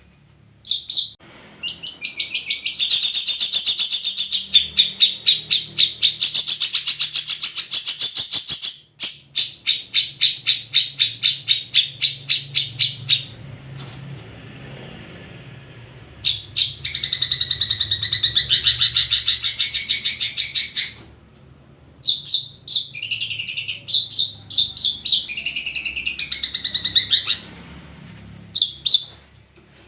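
Long-tailed shrike (cendet) singing in long bursts of fast, rapidly repeated high chattering notes, broken by short pauses, with a few brief calls near the start and end.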